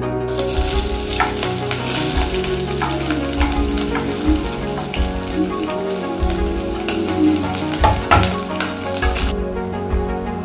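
Food sizzling and frying in a hot pan, with a few sharp clicks scattered through it. The sizzling starts just after the opening and stops about a second before the end, with soft background music underneath.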